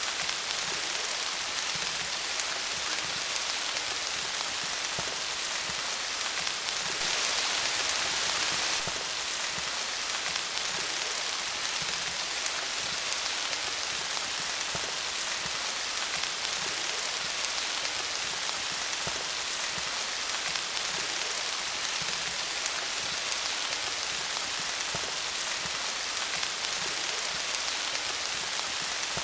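Steady rain falling on leaves, a dense patter of drops with fine individual taps, briefly a little heavier about seven seconds in.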